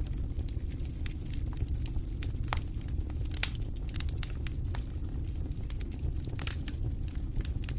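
Wood fire burning in a fireplace, crackling: a steady low rumble of the flames under frequent sharp pops and snaps, the loudest about three and a half seconds in.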